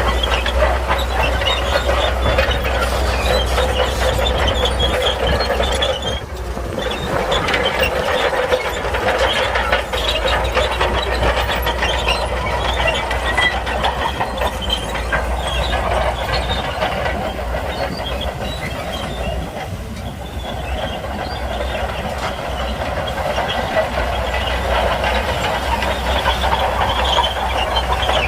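Shantui crawler bulldozer working: its diesel engine runs steadily under a continuous clatter and squeal of steel tracks.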